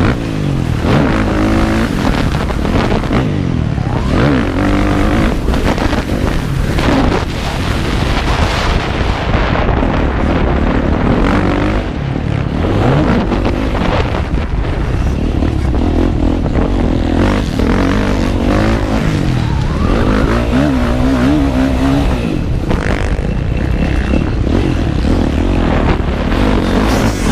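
Motocross motorcycle engine revving up and easing off again and again as the bike is ridden around a dirt track, heard close up from the rider's own bike.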